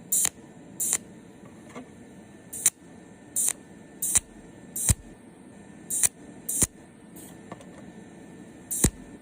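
Energy-storage cold welding machine firing its discharge pulses, welding brass to stainless steel: a series of short, sharp snapping clicks at irregular intervals, roughly one a second.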